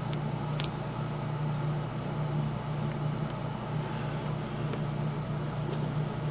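Steady low hum with two small sharp clicks just under a second in, from small model-locomotive parts being handled during reassembly.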